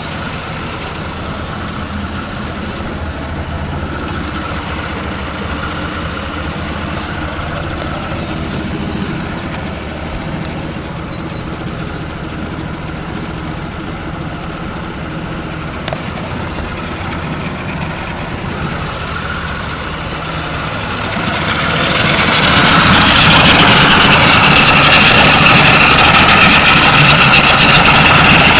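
Boat engine idling steadily after its first start in two years, then becoming much louder about three-quarters of the way through and staying at that level.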